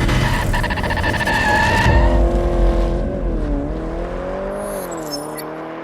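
A car engine, loud and busy for the first two seconds, then a steady engine note that dips and rises in pitch and gradually fades away.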